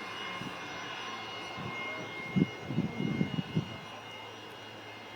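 Boeing 777-200 twin jet engines running at takeoff power, a steady rush with high whining fan tones. About halfway through, a short run of loud low thumps hits the microphone.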